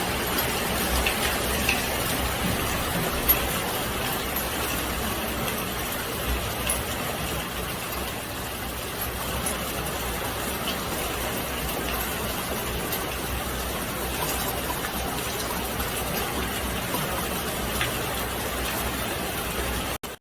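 Steady rain falling, an even hiss with a few faint sharp drop taps.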